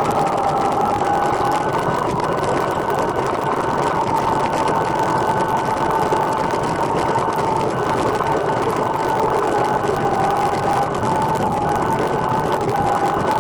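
A recumbent trike on the move: a steady whine that wavers slightly in pitch, over constant rushing road and wind noise.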